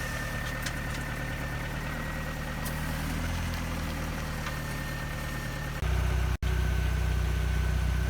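A motor running steadily: a low even hum with a thin, steady high whine. About six seconds in, it cuts abruptly to a louder, similar steady motor sound.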